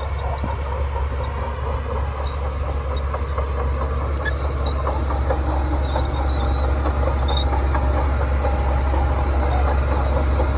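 Shantui DH17C2 bulldozer's diesel engine running steadily with a deep drone, over a busy rattle of small ticks from the working machine. It grows slightly louder toward the end.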